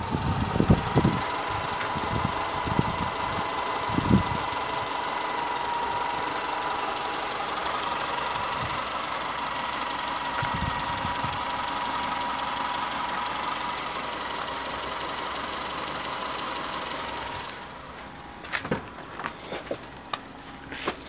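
2006 Subaru Forester's 2.5-litre flat-four petrol engine idling steadily with the bonnet open, a steady high whine running over the engine note. A few knocks sound in the first few seconds. About three-quarters of the way through the engine sound drops away, and a few sharp clicks follow.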